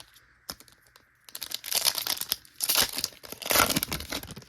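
Foil wrapper of a Pokémon TCG booster pack being torn open and crinkled, in a few rough bursts starting about a second in.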